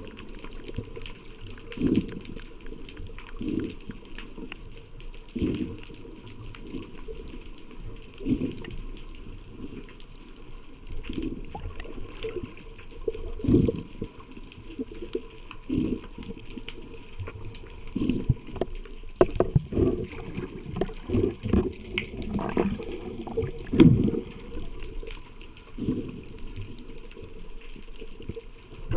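Water heard underwater, rushing past the camera in low whooshing surges every second or two.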